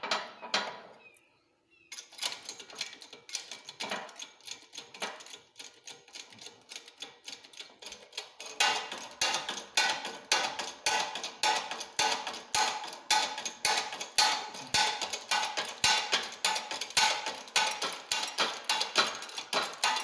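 Rapid, steady metallic clicking from a press being worked to push the crank pin out of a Gravely L crankshaft's flywheels, starting about two seconds in and getting louder around the middle.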